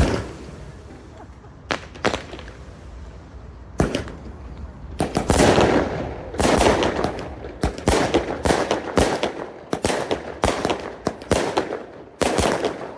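Fireworks: aerial shells bursting with sharp bangs, a few scattered ones at first and then a dense run of bangs from about five seconds in, with crackle and echo trailing after each.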